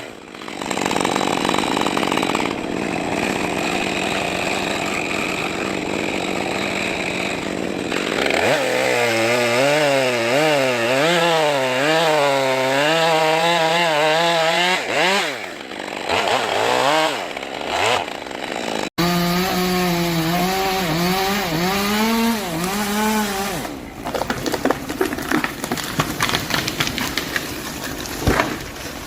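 Chainsaws cutting timber, the engine note rising and falling over and over as the chain loads up in the wood and frees again. Partway through, one saw's sound breaks off for another. Near the end a quick run of sharp clicks and cracks takes over.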